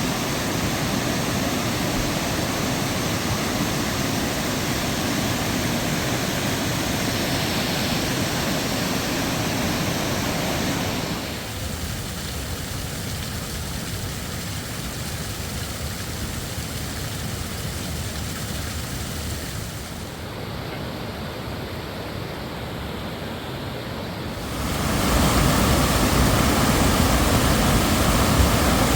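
Steady rush of falling water from a rain-swollen waterfall and creek, with no words over it. The sound drops quieter about a third of the way in and comes back louder and fuller near the end.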